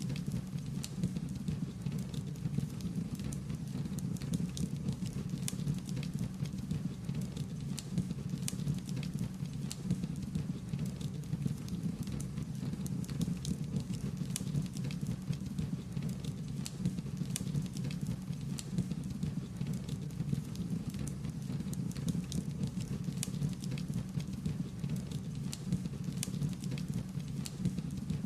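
Wood fire crackling: frequent small, sharp, irregular pops over a steady low rumble of the flames.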